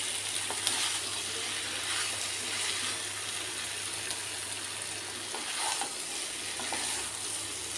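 Green jackfruit pieces sizzling in oil and spice paste in a non-stick kadai as they are stirred and sautéed with a wooden spatula: a steady frying hiss with a few soft spatula knocks.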